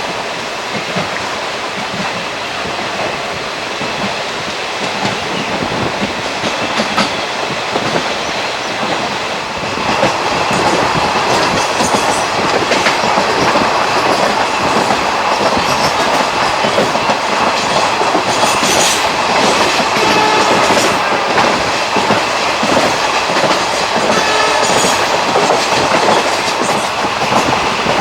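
ICF passenger coaches running along the track, the wheels clattering over rail joints under a steady rumble of running noise. It grows louder about ten seconds in.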